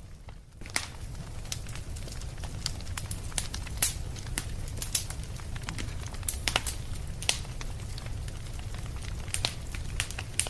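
Wood fire crackling in a fireplace: irregular sharp pops and snaps over a steady low rumble. Right at the start the sound briefly drops away before picking up again.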